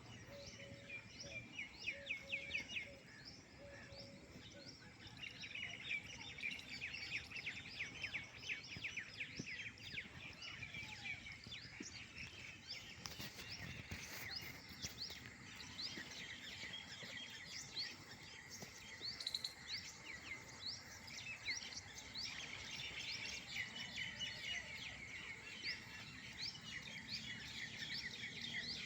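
A flock of small birds chirping together: a dense, continuous chatter of short high chirps, busier from about five seconds in.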